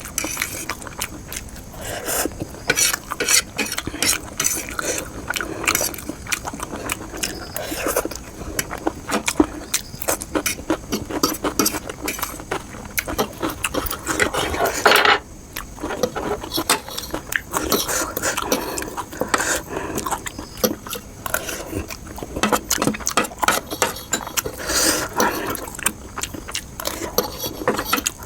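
Close-miked eating of spicy noodles and fried momos: steady chewing and mouth sounds with cutlery clinking and scraping on the plate, and one louder rush about halfway through.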